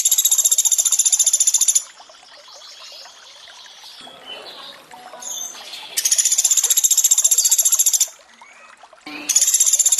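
Pelatuk beras bird's rapid, high trilled burst ('tembakan'), about two seconds at a time: one ends about two seconds in, another comes at around six seconds, and a third starts near the end. Between the bursts there is a soft water trickle and faint other bird calls.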